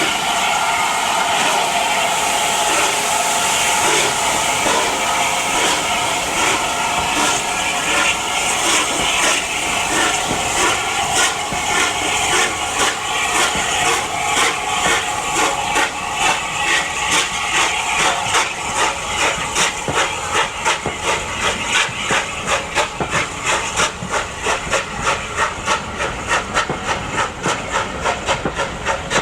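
Steam locomotive working under steam: a steady hiss of steam at first, then a rhythmic chuff of exhaust beats that grows more distinct and regular through the second half.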